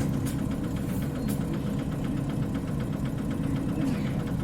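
Isuzu Cubic KC-LV380N city bus's diesel engine running steadily, heard from inside the bus, with an even, low, rhythmic drone.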